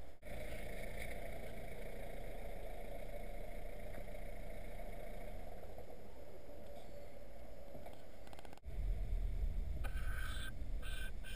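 Steady hum of a car engine idling, heard from the car. It breaks off briefly twice, about a quarter second in and about eight and a half seconds in; after the second break a deeper rumble comes in, with a few short higher sounds near the end.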